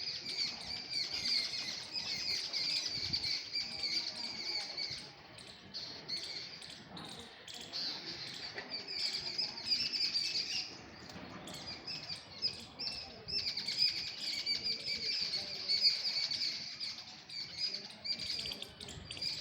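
Small birds chirping and twittering in long, rapid runs, with brief lulls about five and eleven seconds in.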